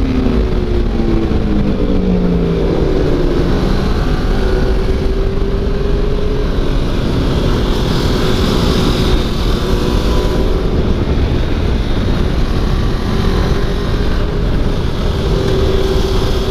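Onboard sound of a sport motorcycle engine running hard at track speed, its pitch falling over the first few seconds and then holding fairly steady, under heavy wind rush on the microphone.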